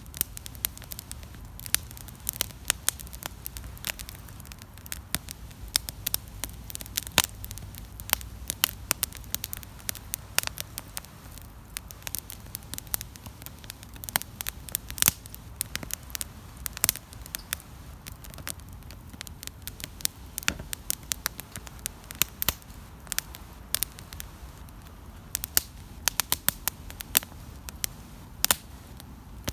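Wood campfire crackling, with frequent irregular sharp pops and snaps over a low, steady rumble of the flames.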